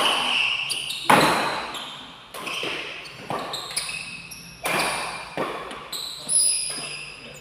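Badminton rackets striking a shuttlecock in a fast rally, a sharp crack about every second, the loudest hit about a second in, with shoes squeaking on the court floor and each hit echoing briefly in the hall.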